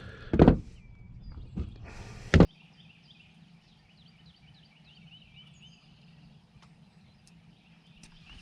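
Two loud knocks from gear being handled in the boat, the second at about two and a half seconds, where the sound drops off abruptly. After that, small birds chirp repeatedly over a faint steady low hum.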